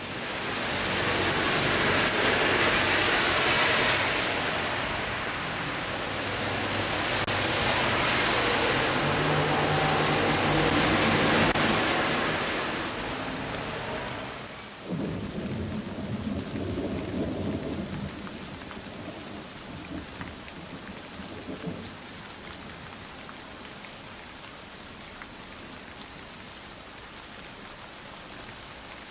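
Heavy rain pouring with thunder rumbling, swelling loud twice. About halfway through it changes suddenly to lighter, steady rain, with a low rumble that dies away.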